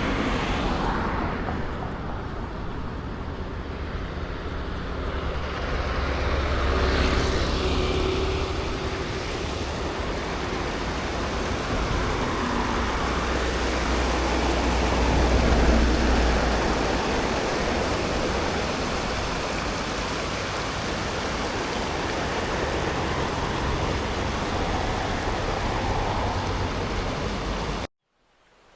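Steady outdoor road noise with vehicles passing, their rumble swelling twice, over a wash of noise that may include surf. The sound cuts off abruptly near the end.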